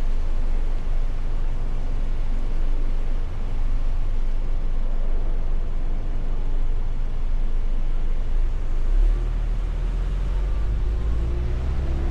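Mustang convertible driving, heard as a steady low rumble of road and wind noise that gets heavier about nine seconds in.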